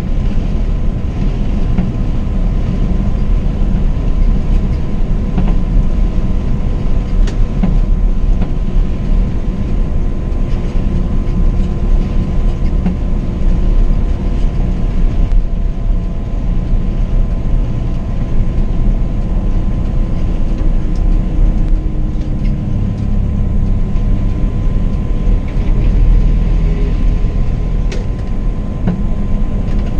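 Scania K420 double-decker coach on the move, heard from the driver's seat: a steady, heavy rumble of engine and road noise, with a faint steady high whine over it.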